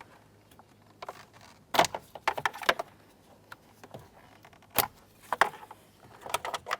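Sharp plastic clicks and short rattles of wiring connectors being unclipped from the back of a car's instrument cluster, in a cluster about two seconds in and again near the end.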